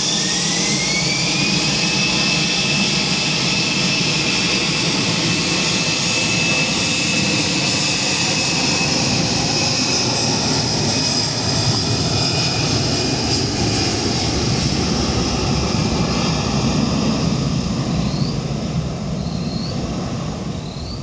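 Jet airliner's engines running at high power: a whine rising over the first two seconds and then holding steady above a loud, dense rush of engine noise, which eases off near the end.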